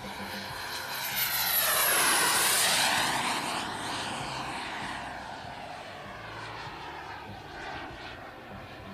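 JetCat P80SE model jet turbine on a BVM Bandit RC jet making a fast low pass. Its high whine swells to a peak about two seconds in, drops in pitch as the jet goes by, then fades away.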